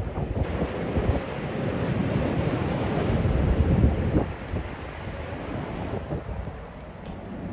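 Storm wind buffeting the microphone over a steady rush of wind and surf, swelling to its loudest a little under four seconds in and then easing off.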